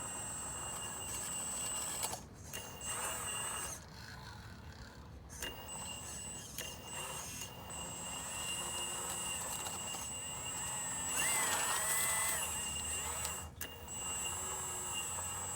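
Radio-controlled hydraulic model excavator running: a steady high electric whine from its pump, cutting out briefly a few times. About eleven seconds in it grows louder for a second or so, with the pitch rising as it takes up a load.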